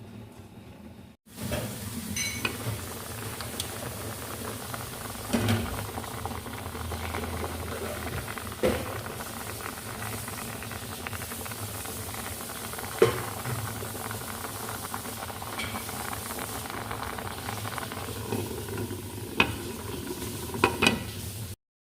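Covered pot of chicken stew boiling on a stove: a steady hiss of bubbling and steam, with a few sharp knocks spread through it.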